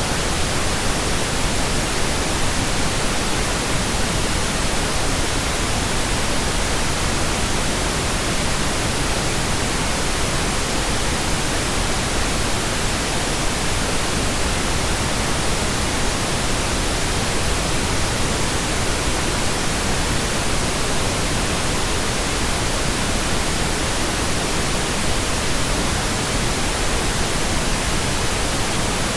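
Steady synthetic pink noise generated in Audacity: an even, unchanging hiss across the whole range with no events in it.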